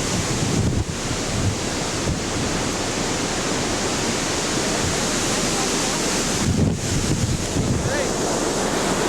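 Strong storm wind buffeting the camcorder microphone: a steady rush of wind noise with heavier low thumps from gusts, about a second in and again near seven seconds.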